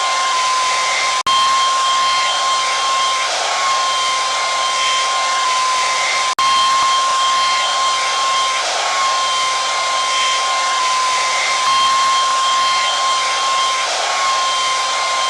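Hair dryer running steadily, a loud even rush of air with a high whine from its motor and fan. The sound cuts out for an instant twice, about a second in and about six seconds in.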